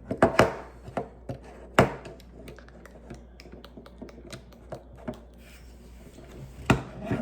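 Small plastic Lego pieces clicking and clattering as they are handled and pressed together: a run of light irregular ticks with a few sharper clicks just after the start, about two seconds in, and near the end.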